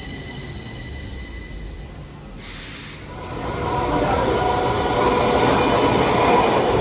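Stockholm metro train with a steady high whine, then a short hiss about two and a half seconds in, followed by a louder running sound with droning tones that builds from about three seconds on.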